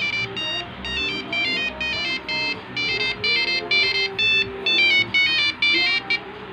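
Nokia 3310 playing a monophonic ringtone through its buzzer: a quick run of short, bright beeping notes that step up and down in pitch, pausing near the end. Background music plays faintly underneath.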